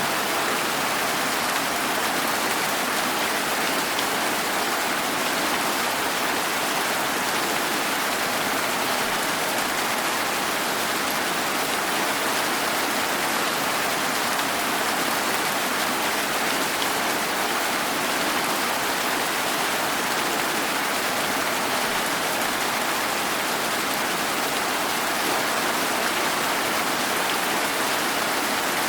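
Steady rain falling, an even hiss of many drops with no breaks or distinct impacts.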